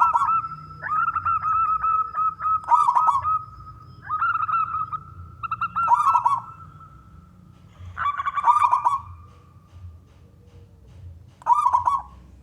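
Male zebra dove (perkutut) singing, repeating its rapid, trilling coo phrase every couple of seconds, about six phrases in all.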